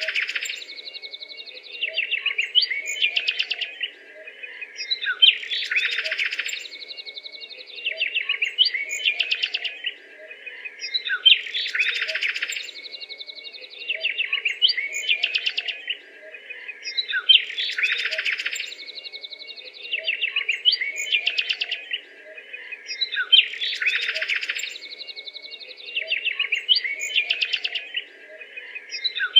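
Bird calls: a burst of rapid chattering notes that repeats the same way about every six seconds, as a looped recording, over a faint steady low hum.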